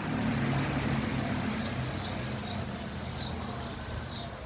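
A steady low mechanical hum, like an idling engine, with short high chirps repeating every half second or so.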